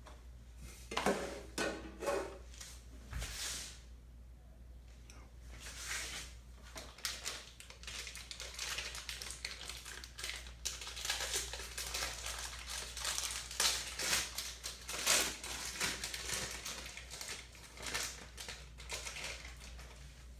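Irregular crinkling and rustling with small knocks, like wrapping or foil being handled while a baking pan for the cookie dough is set up.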